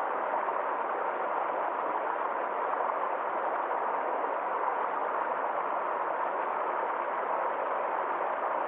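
Water of a small forest stream flowing, a steady, even noise that does not change.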